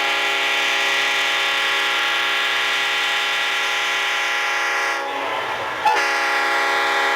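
Locomotive air horn sounding one long, steady blast, which briefly drops off about five seconds in and then sounds again.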